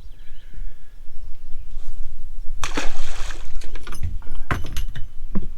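Water splashing and sloshing at the side of a small boat, with one louder splash about two and a half seconds in, then a few knocks near the end.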